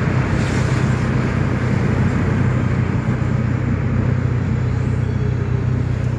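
Dodge Neon SRT-4 being driven, heard from inside the cabin: the turbocharged 2.4-litre four-cylinder engine makes a steady low drone under road noise, holding an even pitch without revving up or down.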